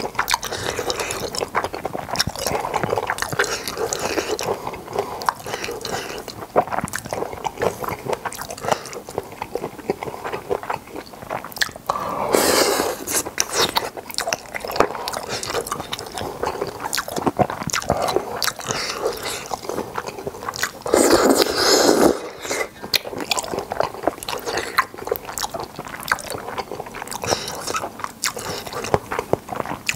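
Close-miked eating of boneless chicken feet and Chinese glass noodles: continuous wet, sticky chewing with crunching and clicking, with two louder stretches about 12 and 21 seconds in.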